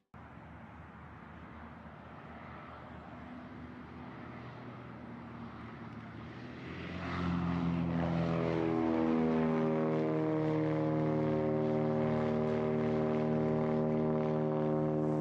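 Propeller aircraft engine: a rising rush of engine and air noise that grows much louder about seven seconds in, then holds as a steady, evenly pitched drone.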